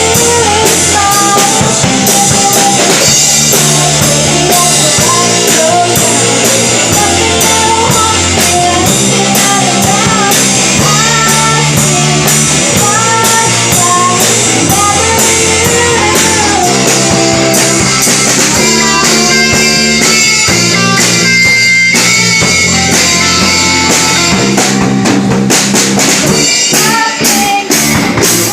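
A band playing a pop-rock cover song with drum kit, bass and electric guitar, a melodic lead line carried over a steady beat.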